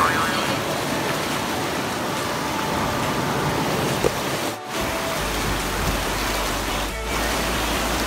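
Steady rush of whitewater from river rapids, a constant hiss. It drops out for a moment twice, and a low rumble joins about five seconds in.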